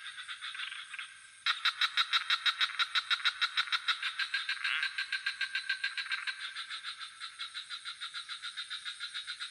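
Frog chorus calling in a fast, even train of croaking pulses, several a second. It starts abruptly about a second and a half in and grows quieter in the second half, over a steady high-pitched chirring of crickets.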